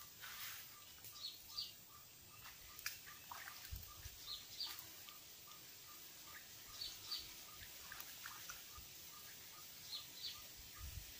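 Birds calling faintly. A high two-note chirp repeats about every three seconds over a steady run of short, evenly spaced notes at about four a second.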